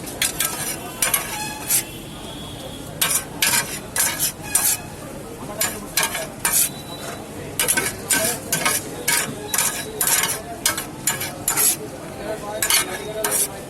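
Food stir-frying in a hot pan: a metal spatula scraping and clanking against the pan in quick, irregular strokes over a steady sizzle.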